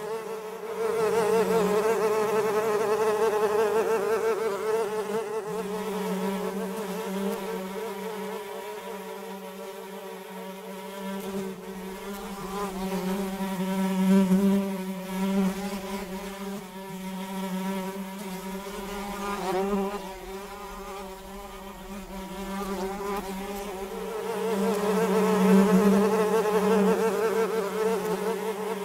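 Flies buzzing in flight: a wavering hum at a couple of pitches that swells and fades several times, loudest about a second in, around fourteen seconds in and near the end.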